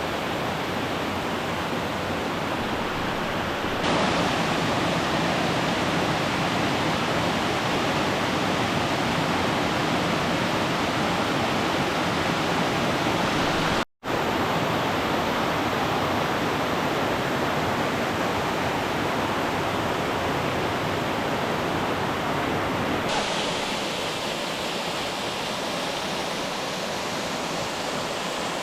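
Waterfall: a steady rush of falling water. It steps louder about four seconds in, cuts out completely for an instant about halfway, and eases somewhat a few seconds before the end.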